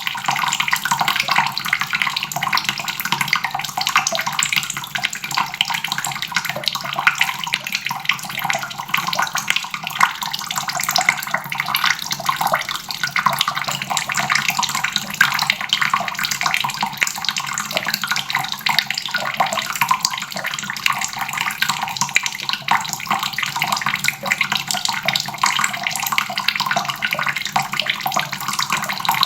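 Water faucet running steadily, its stream splashing into a basin with a constant hiss.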